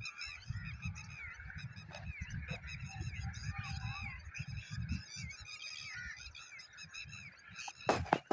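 A large flock of starlings chattering together: many overlapping short chirps, whistles and squeaks, with a low rumble of wind on the microphone. A couple of sharp cracks come near the end.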